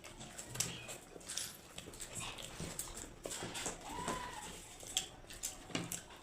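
Eating noises: chewing and mouth sounds with scattered clicks of hands on plates, and one short whine that rises and falls about four seconds in.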